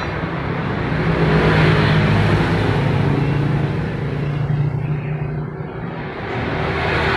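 A freshly overhauled engine running, its speed and loudness rising about a second in, easing off around five seconds in and picking up again near the end.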